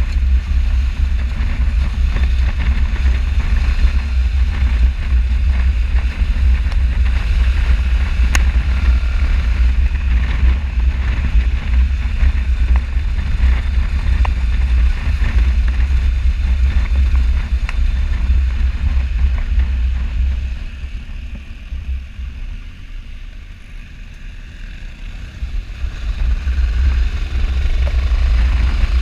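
Motorcycle on the move, heard mostly as heavy wind buffeting on the camera microphone over a low engine rumble. It eases for a few seconds about three quarters of the way through, then builds again.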